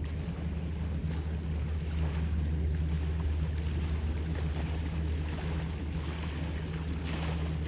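Steady low engine hum under wind rushing across the microphone.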